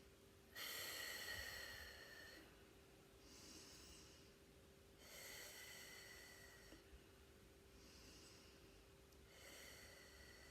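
A woman breathing slowly and deeply, in through the nose and out through the mouth, about three breaths in a row as a calming yoga breathing exercise. The breaths are soft and airy.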